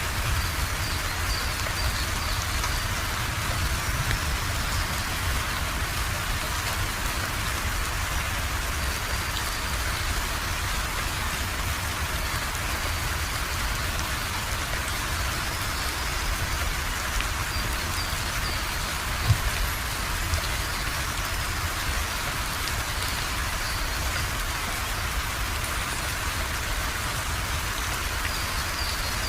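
Steady rain falling and pattering on surfaces, with a deep low rumble underneath. There is one sharp tap about two-thirds of the way through.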